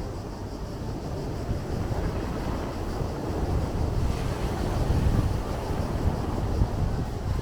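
Sea waves washing ashore, with wind buffeting the microphone as a low rumble; the surge grows louder about four to five seconds in.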